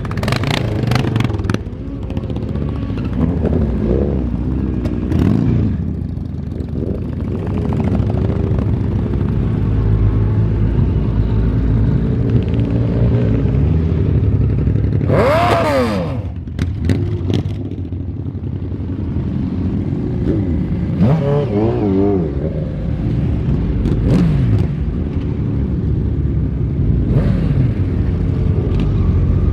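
Motorcycle engines running steadily, with several revs that rise and fall in pitch, the loudest about fifteen seconds in.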